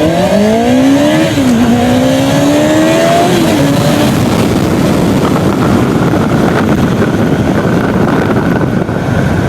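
2006 Kawasaki ZZR600's 600cc inline-four engine accelerating hard, its pitch climbing through the gears with an upshift just over a second in and another about three seconds in. From about four seconds in, a loud rush of wind on the microphone covers the engine at speed.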